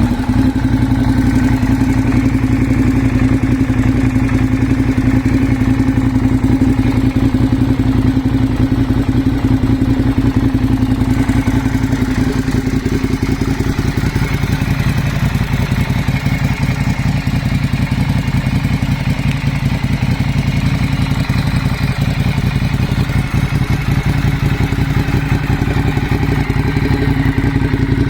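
Ducati Diavel's L-twin engine idling steadily through a Two Brothers carbon aftermarket exhaust.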